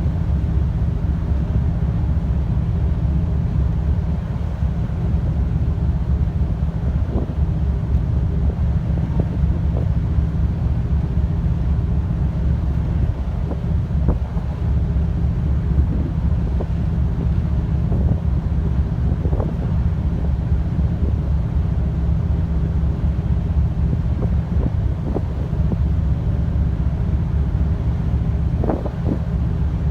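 Steady low rumble of the Nankai Ferry Katsuragi's machinery, with wind buffeting the microphone.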